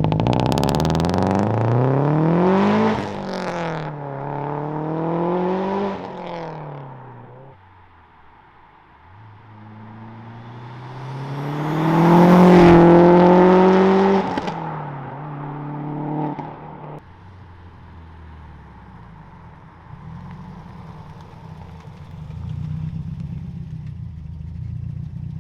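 Built turbocharged flat-four of a 650 whp Subaru WRX STI accelerating hard, its pitch climbing and dropping twice as it shifts up, then easing off. About ten seconds in it climbs again to its loudest and holds a high, steady pitch for a couple of seconds before falling back to low, even running.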